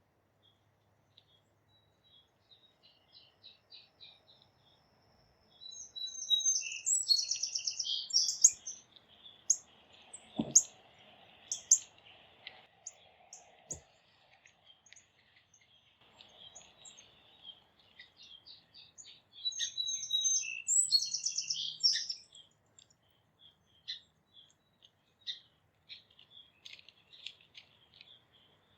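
Wild songbirds singing outdoors: two loud, rapid, high-pitched song phrases about thirteen seconds apart, with scattered short chirps between them. Two dull thumps come about a third and halfway through.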